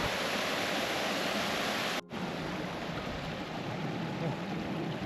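Rushing water of a rocky moorland stream with small waterfalls, a steady noisy rush. It cuts off abruptly about two seconds in and comes back a little quieter.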